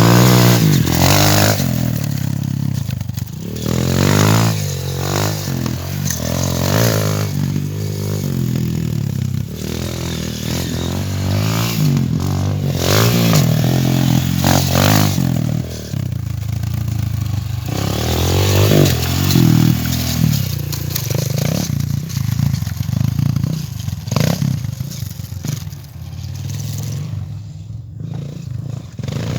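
A 230 cc dirt bike engine being ridden hard, revving up and dropping back again and again as the pitch climbs and falls.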